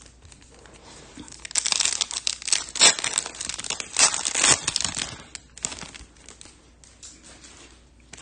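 Foil wrapper of a trading-card pack crinkling and tearing in a dense run of crackles that fade out after about five seconds.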